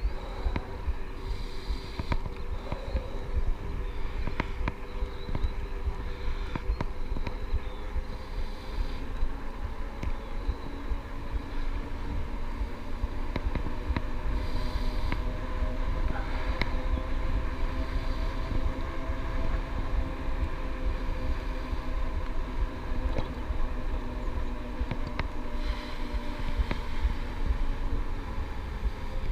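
Ride on an electric bike: wind rumbling on the microphone and tyre noise, with a steady whine from the e-bike's motor that drifts slowly in pitch, and scattered clicks and rattles.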